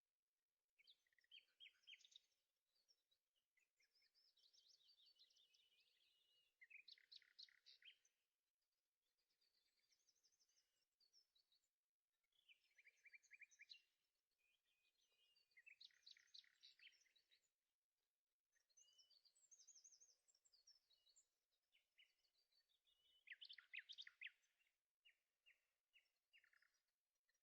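Faint songbird song: short chirped and trilled phrases repeated every few seconds.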